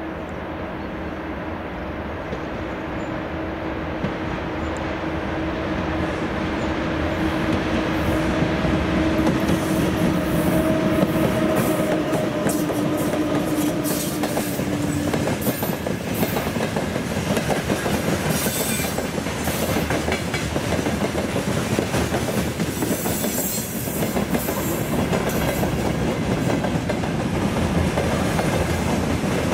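VL10U electric locomotive hauling a freight train past at speed. A steady hum grows louder as it approaches and passes, then stops about halfway through. After that the long line of boxcars rolls by with a continuous rumble and the clickety-clack of wheels over rail joints.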